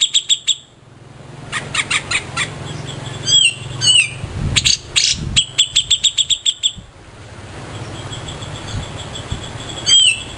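Cica jenggot songbird singing: bursts of rapid, evenly repeated sharp notes, broken up by a few quick slurred notes, over a steady low hum.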